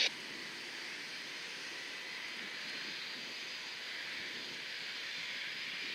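Steady jet aircraft engine noise at an airport, an even hiss with a faint steady whine.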